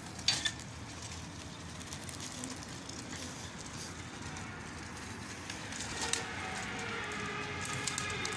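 Two sharp clicks about half a second in, then from about six seconds a passing motor vehicle's engine, rising in pitch as it accelerates.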